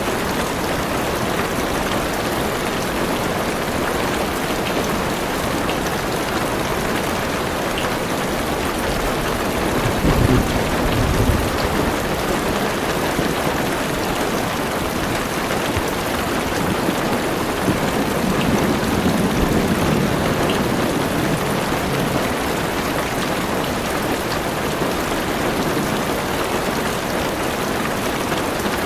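Heavy rain drumming steadily on a car's roof and windows, heard from inside the car. A low rumble of thunder comes about ten seconds in and a softer one around nineteen seconds.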